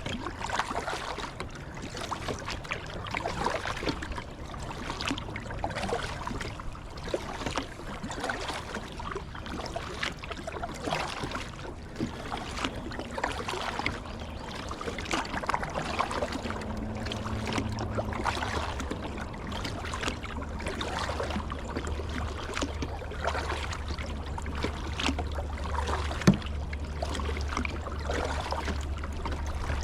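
River water splashing and gurgling around a kayak being paddled in a strong current, with irregular paddle strokes and water slapping the hull. A low steady rumble runs underneath and grows stronger from about halfway, and there is one sharp knock near the end.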